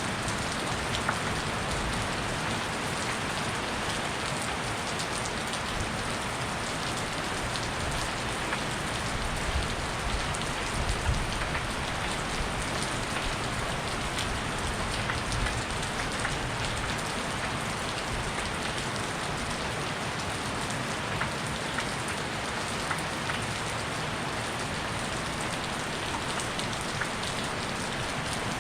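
Heavy rain falling steadily, a constant hiss with many small sharp drop hits scattered through it.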